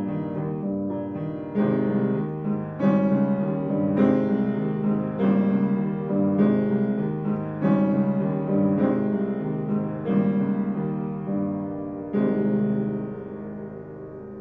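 Solo piano playing a song accompaniment with the vocal line left out, slow chords struck about once a second. The last chord comes near the end and is left to ring and fade.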